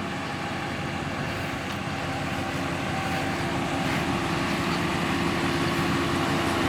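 Cabin noise of a 2013 Ram 1500 Hemi pickup on the move: a steady engine and road drone with a low hum, growing gradually louder.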